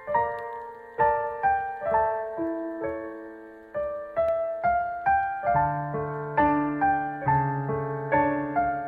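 Background piano music: soft, evenly paced single notes, each struck and left to fade, with deeper bass notes joining about halfway through.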